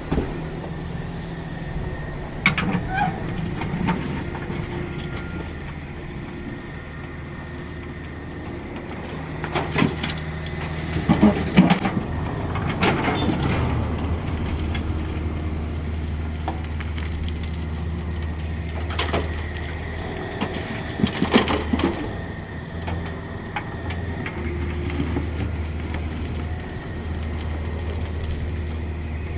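Cat 305.5E2 mini excavator running steadily with a low engine hum, broken several times by bursts of clanking and scraping as the bucket works the soil; the loudest burst comes a little before halfway.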